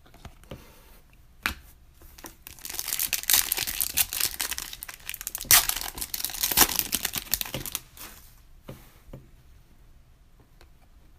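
A trading card pack's wrapper being torn open and crinkled, a dense crackling that lasts about five seconds, with a few sharp clicks just before it.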